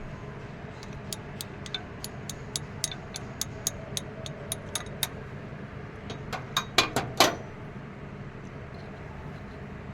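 Metal tools working on engine parts: a run of light metallic clicks, about three to four a second, then a handful of louder metal clinks that ring briefly, a little past halfway, over a steady low hum.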